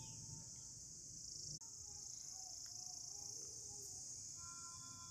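Steady high-pitched shrill of a chorus of insects, broken off briefly about a second and a half in, with faint whistled bird calls behind it.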